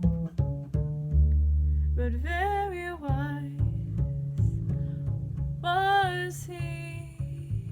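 Bass plucked through a line of low notes, with one note held for a couple of seconds, under two short sung phrases from a solo voice.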